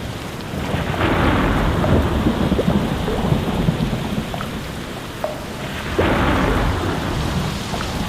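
Steady heavy rain with thunder rumbling, swelling louder about a second in and again about six seconds in.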